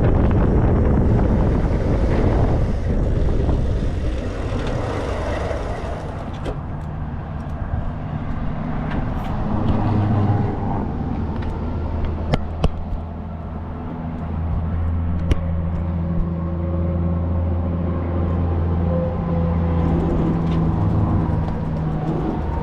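Wind rushing over the microphone while riding, easing after a few seconds. It gives way to a steady low engine hum with a few sharp clicks.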